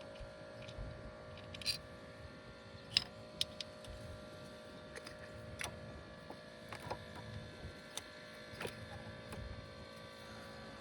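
Scattered sharp clicks and light clinks of hand tools and small parts being handled, about half a dozen spread irregularly, over a steady low hum.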